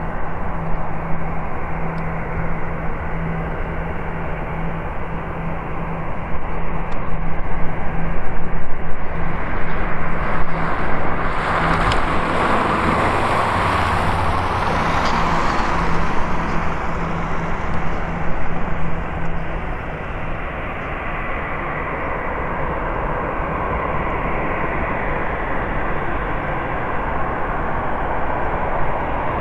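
Airbus A340-300's four CFM56 jet engines passing close by: the jet noise swells to a peak near the middle, with a high whine that falls in pitch as the airliner goes past, then settles back to a steady rumble.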